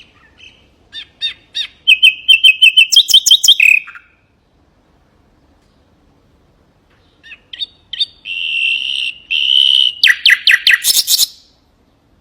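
Common nightingale singing two phrases, each a fast series of repeated high notes running into a trill, with a pause of about three seconds between them.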